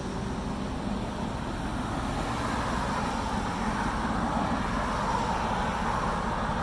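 Steady road and wind rumble from riding along, with a faint low hum underneath.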